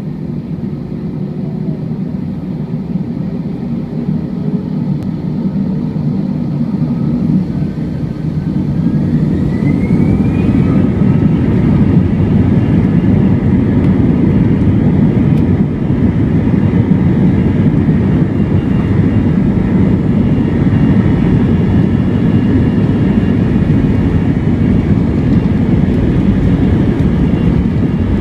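Airbus A321 jet engines spooling up for takeoff: a rising whine and a swell in the noise about eight to eleven seconds in, then a steady loud rumble as the aircraft rolls at takeoff thrust.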